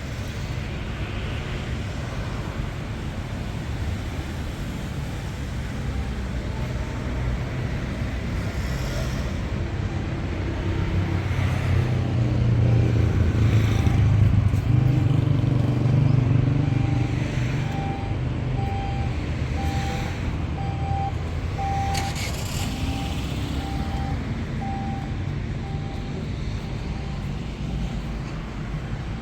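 Street traffic rumble, with a vehicle passing close and growing louder in the middle. A row of short, evenly spaced beeps at one pitch, about one a second, runs through the second half.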